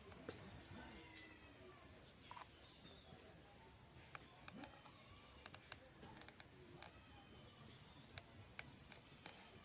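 Faint outdoor ambience: insects chirping in an even, repeating high pulse, with scattered faint clicks.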